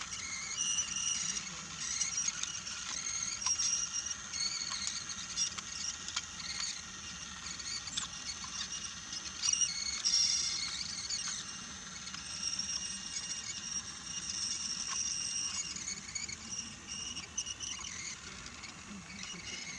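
Battery-powered Brio toy train running on wooden track: a high, wavering whine from its small motor and gears, with a sharp click now and then.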